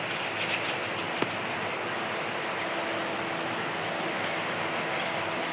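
Ventisol Power 70 cm three-blade 230 W wall fan running steadily at top speed: a steady rush of air with a faint hum, and a small click about a second in.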